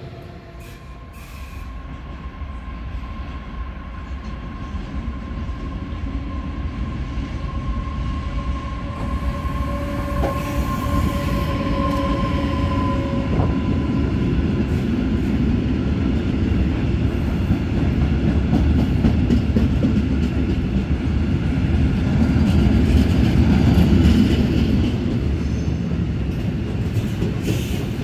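Long freight train of covered goods wagons rolling past, wheels rumbling and clattering on the rails, growing louder as the wagons go by. A steady whine sounds through the first half.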